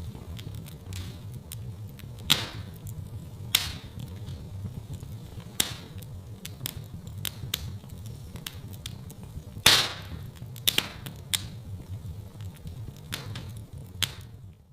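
Wood fire crackling in a fireplace: a steady low rumble of burning with irregular sharp pops and snaps. The loudest pop comes about two-thirds of the way through.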